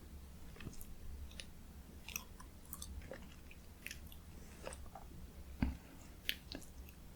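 Close-miked chewing of spicy stir-fried chicken (dakgalbi): soft wet mouth clicks and smacks at irregular intervals, with a couple of sharper clicks in the latter part.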